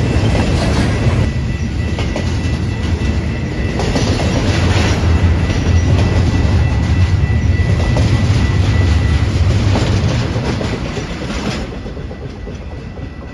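Double-stack intermodal freight train's container well cars rolling past: a steady low rumble with scattered wheel clacks, fading as the last cars go by near the end.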